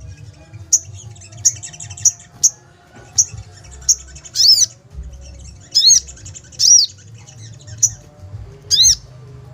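Sogon (chestnut-backed scimitar babbler) calling excitedly: a run of short, sharp, high chips repeated about once a second, broken by a few longer arched calls. The bird is agitated.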